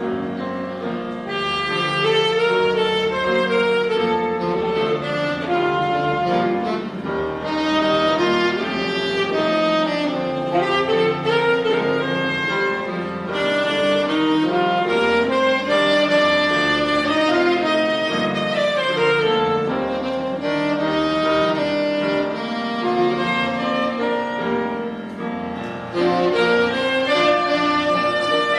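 Live instrumental ensemble music: a slow duet melody of sustained, gliding notes over accompaniment, playing on without a break and easing briefly near the end before a stronger phrase comes in.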